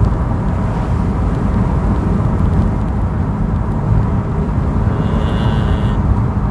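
BMW M3's S65 V8 with a modified X-pipe exhaust cruising steadily at low revs in fourth gear: an even, low exhaust rumble with road noise and no rise in pitch.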